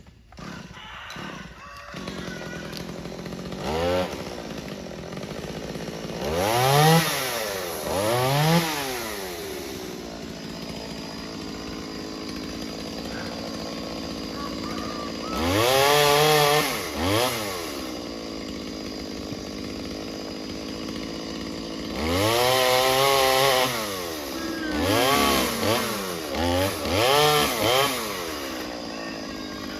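Two-stroke chainsaw idling and being revved up in repeated bursts, each rising to a high whine and dropping back to idle. There is a longer burst at high revs a little past the middle, and several quick blips near the end.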